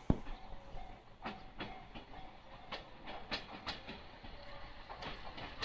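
Moka Railway diesel railcar approaching, its wheels clicking irregularly over the rail joints. A single sharp click comes right at the start.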